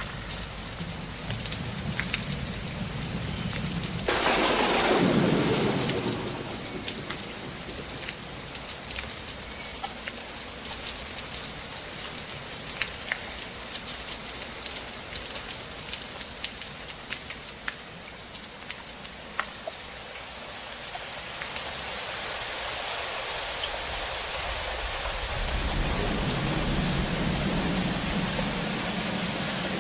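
Rain falling steadily, with many single drops ticking on a hard surface. About four seconds in a louder swell rises and falls in pitch over a couple of seconds, and near the end a low hum joins the rain.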